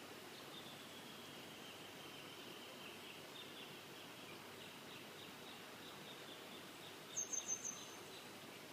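Wild birds singing: a steady run of faint repeated chirps and trills. Near the end, a louder burst of four quick, higher-pitched notes.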